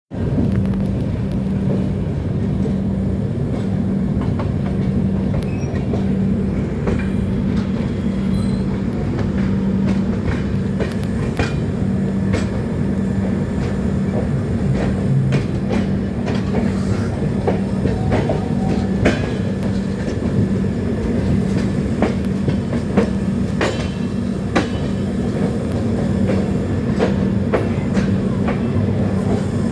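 A train running along the rails: a steady low rumble with a pulsing hum, and scattered clicks and clacks from the wheels on the track.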